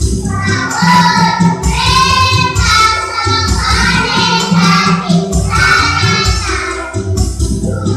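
Kindergarten children's choir singing together over a musical accompaniment.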